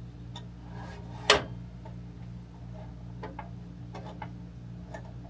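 Scattered clicks and taps of hand tools and metal saw parts being handled while a saw is taken apart for a blade change, the loudest a single sharp knock about a second in, over a steady low hum.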